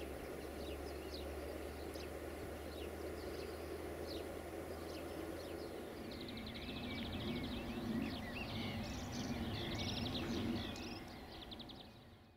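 Outdoor ambience of birds chirping over a low steady hum; about six seconds in, louder birdsong with rapid high trills and warbles takes over, then fades out just before the end.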